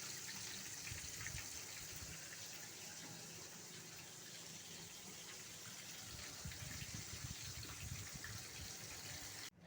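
Faint, steady sizzle of chicken pieces frying in a pan.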